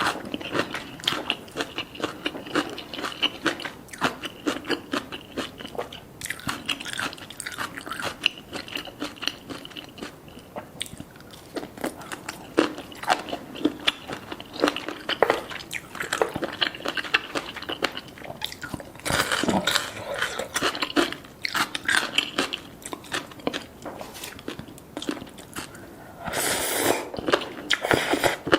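Crunching and chewing: many quick, irregular crisp crunches, with louder stretches near the middle and near the end.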